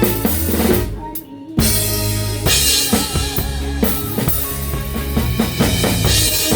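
Live band rehearsing with the drum kit up front: bass drum, snare and cymbals over bass and chords. About a second in the band breaks off briefly, then comes back in together on a hard drum hit and plays on.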